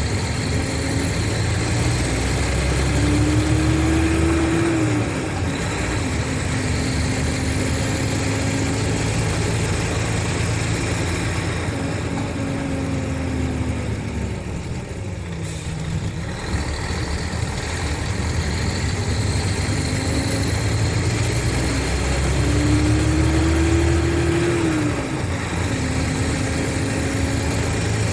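Mercedes-Benz O500RSD coach's diesel engine running. Twice its pitch rises under acceleration and then drops sharply, as at a gear change. About halfway through it eases off briefly.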